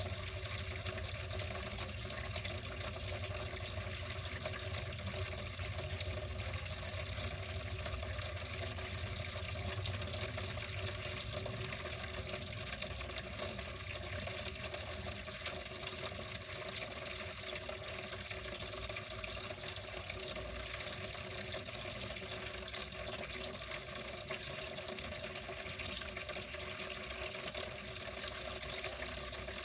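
Water running steadily in an even, unbroken rush, with a low hum underneath that fades out about twelve seconds in.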